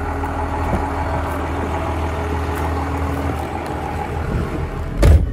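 Car engine idling steadily, with a loud thump about five seconds in as the car door is shut.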